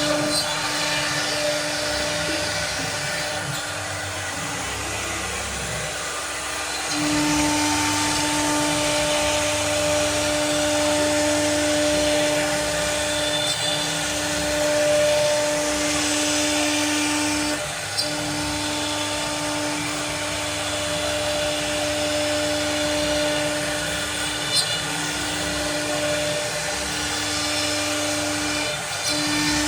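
CNC cutting machine running: a steady whine that breaks off for a moment and resumes every few seconds, over a continuous hiss.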